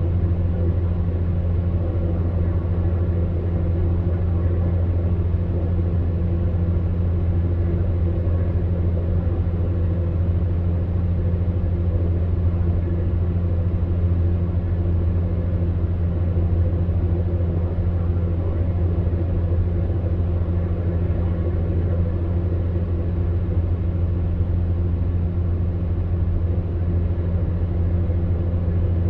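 Electric fan heater running: a steady low hum from its fan motor with an even airy rush, unchanging throughout.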